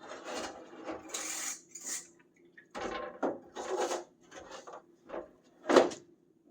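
Truck parts and tools being handled during disassembly: a run of scrapes, rustles and clunks, with the loudest knock near the end.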